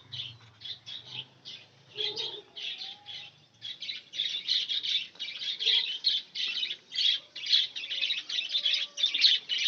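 A flock of budgerigars chattering and squawking in their cages, a rapid stream of short, high chirps that grows denser and busier about four seconds in. The birds are excited at the sight of the egg-and-rice food being brought to them.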